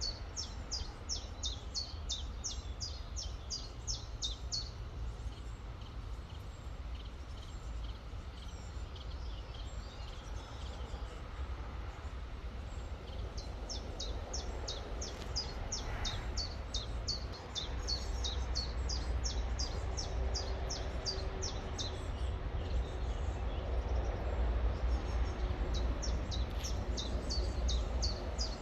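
A songbird repeating rapid, high, sharp chirps, about five a second, in three runs of several seconds each, over a steady low background rumble.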